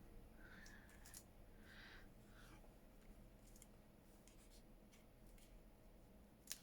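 Near silence, with a few faint rustles and ticks of paper and craft materials being handled, and one sharper click near the end.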